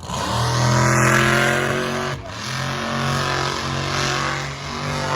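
Monster truck engine running at high revs, its pitch held fairly steady with a few brief dips.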